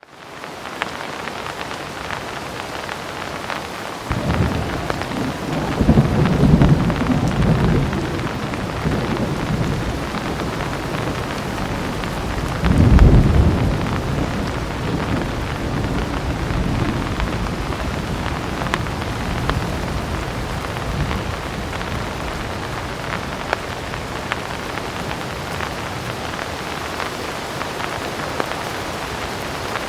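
Heavy rain falling steadily, fading in at the start, with thunder rolling twice: a long low rumble from about four seconds in and a louder peak around thirteen seconds, then rain alone.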